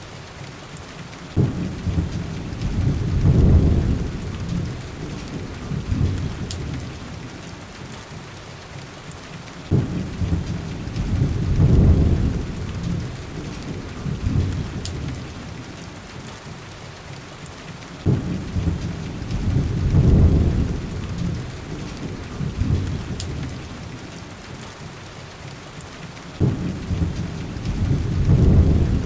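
Steady heavy rain with rolling thunder: four low rumbles, each swelling and fading over a few seconds, come at even intervals about eight seconds apart.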